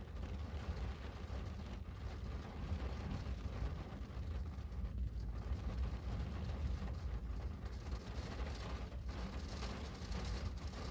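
Steady rain falling on a window: an even hiss over a constant low rumble, with no single drops or knocks standing out.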